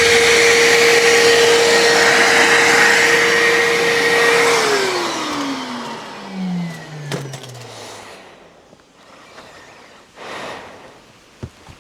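An electric motor runs with a steady whine, is switched off about four and a half seconds in, and winds down over the next few seconds with its pitch falling. A few light knocks and a short scuffing noise follow.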